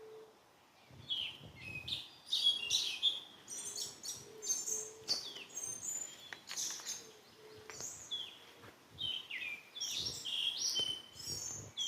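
Several songbirds chirping and calling in quick succession, short overlapping high notes, some sliding down in pitch, with a faint low hooting tone in the gaps.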